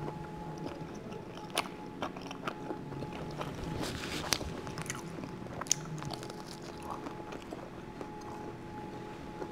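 Close-up mouth sounds of a person chewing cheesy garlic bread: soft wet smacks with a few sharp clicks, over a faint steady hum.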